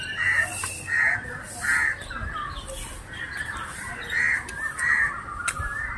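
Crows cawing: three caws in quick succession, a pause, then two more, with faint other bird calls between.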